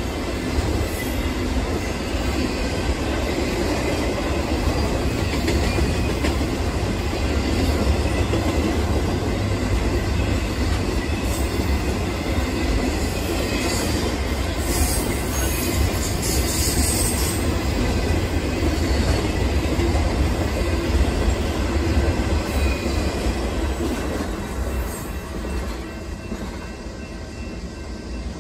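Double-stack container freight train rolling past, its steel wheels rumbling and clacking over the rails, with a brief high squeal about halfway through. The noise fades over the last few seconds as the tail end of the train goes by.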